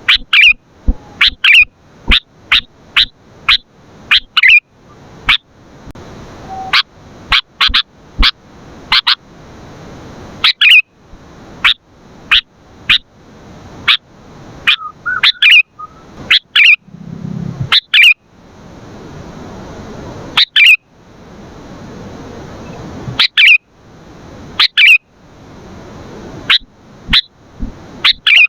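Sooty-headed bulbul calling loudly and repeatedly: short, sharp notes, many of them in quick runs of two or three, with short pauses between runs and a faint hiss in the gaps.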